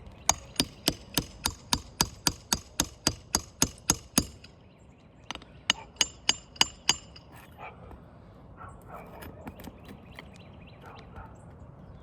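Hammer blows on metal: a fast, even run of about fifteen strikes at roughly three a second, then five more after a short pause, each with a bright metallic ring. Fainter knocks and scraping follow.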